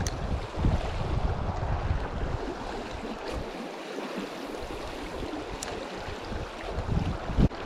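River water rushing over rock riffles, with wind gusting on the microphone in low rumbles during the first couple of seconds and again near the end.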